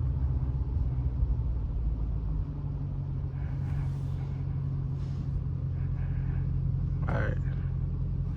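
Dodge Challenger R/T's 5.7-litre Hemi V8 running at low speed, a steady deep rumble whose note shifts and settles about two and a half seconds in as the car pulls up.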